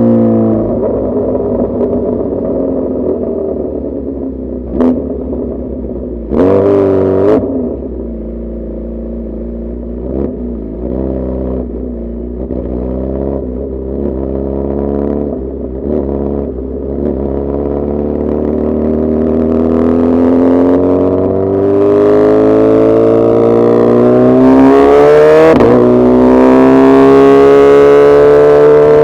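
Suzuki Hayabusa's inline-four engine running, its note falling as it slows over the first several seconds, then holding steady. In the last third it climbs steadily as the bike accelerates, with a short louder burst of throttle about seven seconds in.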